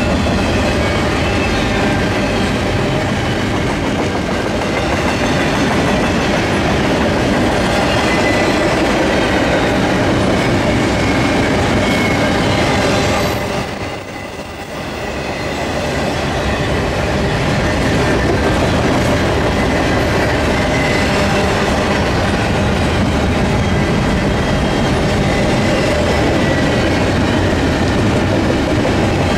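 Double-stack intermodal well cars of a freight train rolling past close by: a steady rumble and clatter of steel wheels on rail, with a faint high wheel squeal at times. The noise dips briefly about halfway through, then comes back up.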